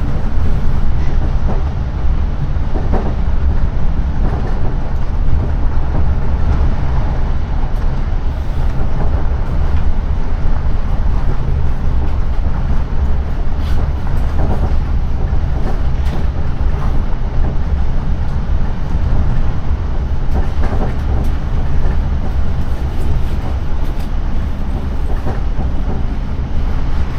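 Class 455 electric multiple unit running along the line, heard from inside the carriage: a steady, loud rumble of wheels and running gear, with a few faint rail knocks.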